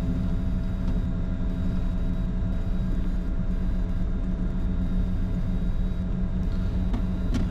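Steady rumble and hum in the cockpit of a Bombardier Challenger 605 taxiing after landing, its twin turbofans at low power with the APU running. The hum holds several steady tones and does not change.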